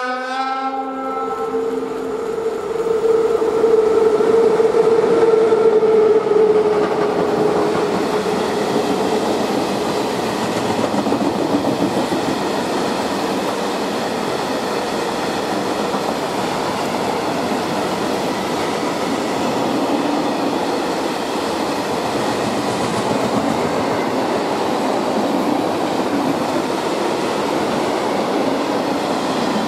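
Freight train hauled by a class 182 electric locomotive coupled with an SM42 diesel, passing close by. A horn blast cuts off in the first second, then the locomotives go by with a steady hum that is loudest a few seconds in. The wagons follow with a long, steady rumble and clatter of wheels over the rail joints.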